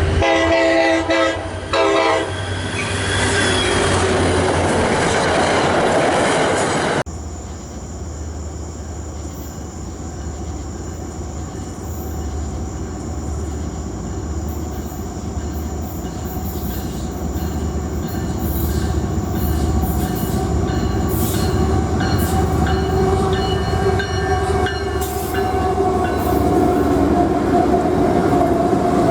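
Diesel freight train: a locomotive air horn sounds a chord in the first couple of seconds, then the train runs past in a loud rumble. After an abrupt cut about seven seconds in, the steady rumble of a passing train returns, with a low engine hum and scattered wheel clicks, growing louder toward the end.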